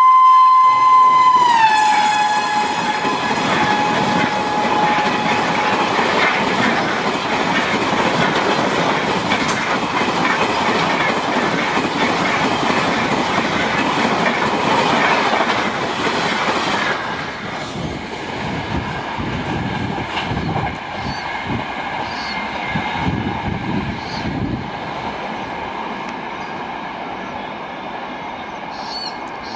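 An express train passing at speed. Its WAP-7 electric locomotive sounds its horn at the start, and the horn drops in pitch as it passes. The coaches then roll by with loud wheel-on-rail rumble and clickety-clack, which eases off after about seventeen seconds.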